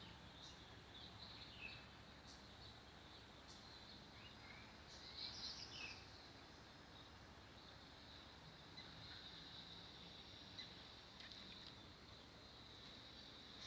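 Quiet outdoor natural ambience: a faint, steady high insect drone with scattered short chirps, and a slightly louder cluster of chirps about five seconds in.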